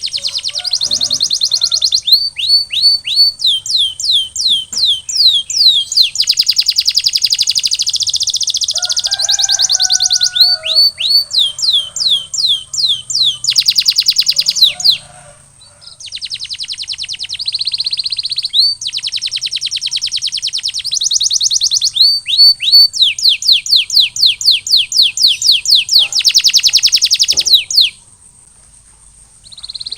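Male domestic canary singing: long phrases of rapid repeated notes, fast trills and rolls of quick downward-sweeping whistles, with brief pauses about halfway and near the end.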